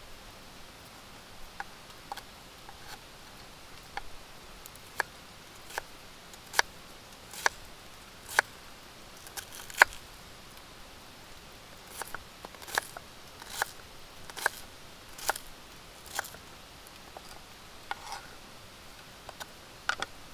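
A run of sharp taps or clicks, roughly one every 0.8 seconds, in two runs with a short break between them, over a faint steady hiss.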